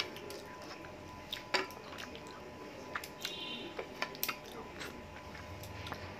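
Close-up eating sounds of rice and chicken eaten by hand: wet chewing and lip smacks, with scattered sharp clicks as fingers work the food on the plate.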